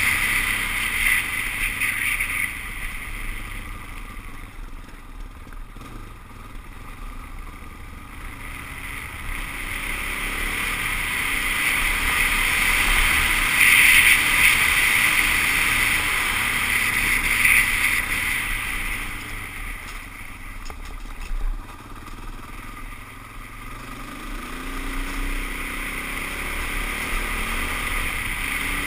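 Suzuki DR-Z400S dual-sport motorcycle's single-cylinder engine running under way, with wind noise on the helmet-mounted microphone. The engine gets louder through the middle as the throttle opens, then eases off and rises again in pitch near the end.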